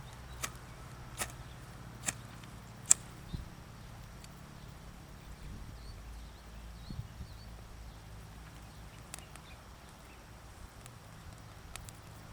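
A series of sharp taps or clicks, about one a second for the first three and a half seconds, the loudest about three seconds in, then a few faint ticks over a low steady hum.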